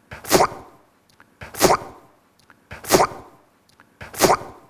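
The same short, sharp burst of sound repeated four times at even intervals of about one and a third seconds, an edited loop of one clip.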